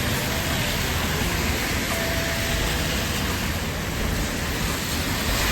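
Steady hiss of rain mixed with passing road traffic on a city street.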